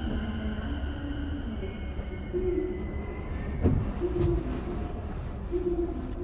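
Inside an electric commuter train: a steady low rumble of wheels on rail with faint thin motor and brake tones.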